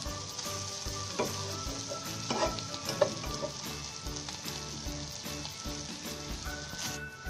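Prawns, onions and dried red chillies sizzling steadily in hot oil in a wok. A metal spatula scrapes and taps against the pan a few times in the first three seconds, with the sharpest knock about three seconds in.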